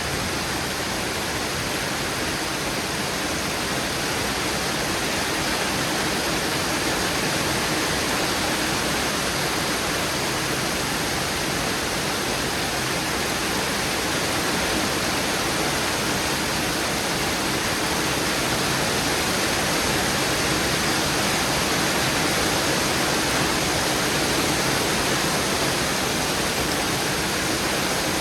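Heavy rain pouring down steadily during a thunderstorm, a dense even hiss that grows slightly louder over the second half, with no thunderclaps.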